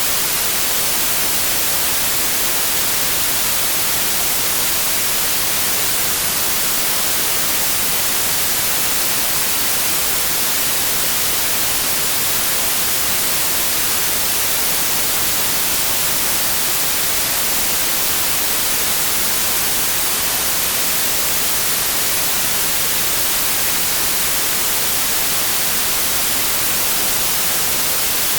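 Synthetic white noise: a steady, even hiss that does not change, strongest in the high end.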